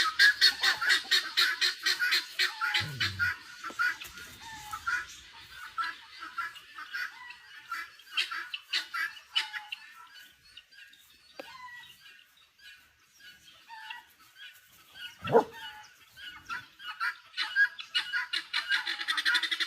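A flock of large waterfowl honking, many quick calls overlapping. The calls are dense at first, thin out in the middle and build again near the end. One louder call slides down in pitch about fifteen seconds in.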